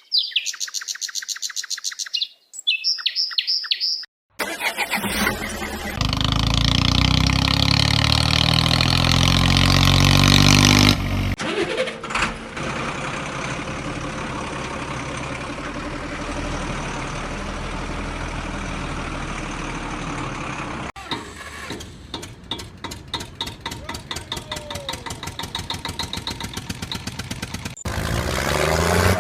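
Vehicle engine sounds in several cut-together segments: a pulsing engine, an engine starting and rising in pitch, then running steadily, and a pulsing engine again near the end.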